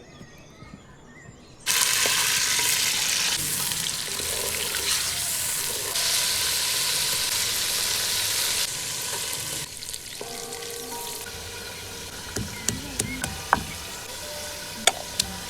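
Food frying in hot oil in a cooking pot for chicken matar pulao. A loud sizzle starts suddenly about two seconds in. Near the ten-second mark it drops to a quieter sizzle, and several sharp taps come near the end.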